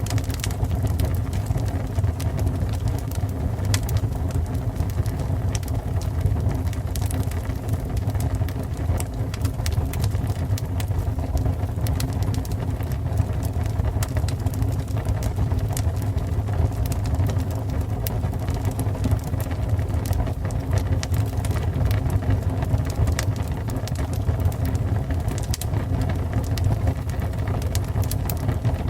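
Fire burning: a steady low rumble of flames with scattered small crackles and pops.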